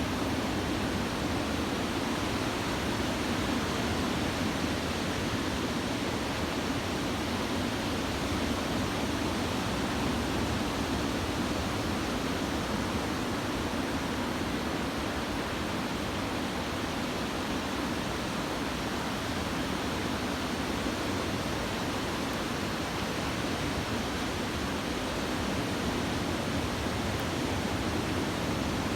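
Steady roar of breaking typhoon-swell surf mixed with wind, an even hiss with no single wave crash standing out.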